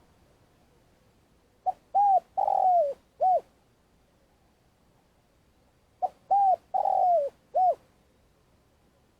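Spotted dove cooing, two phrases a few seconds apart. Each phrase has two short coos, a longer coo that falls in pitch at its end, then a short final coo.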